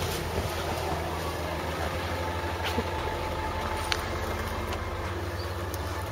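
Vehicle engine running steadily, a low even hum, with a couple of faint clicks in the middle.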